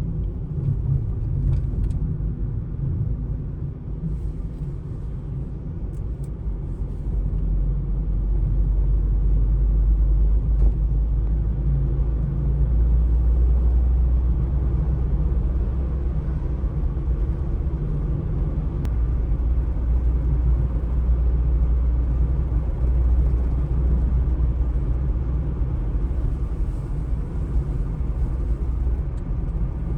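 Steady low rumble of outdoor street ambience, growing somewhat louder about a quarter of the way in.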